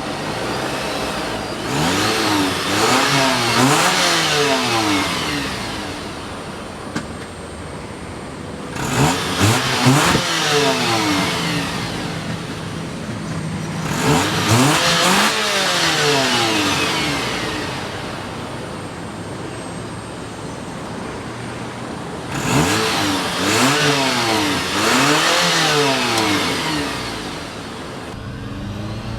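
A 2010 Citroën C-Crosser's engine is revved four times while standing. Each time the pitch rises and falls, and it settles back to a steadier, quieter run between the revs.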